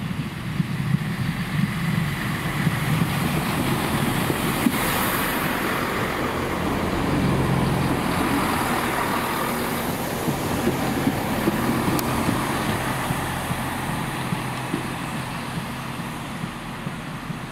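A train running past with a low rumble that builds to a peak about halfway through and fades toward the end.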